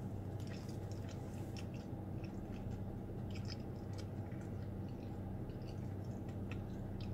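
A person chewing food with her mouth closed: soft, irregular clicks and smacks over a steady low hum.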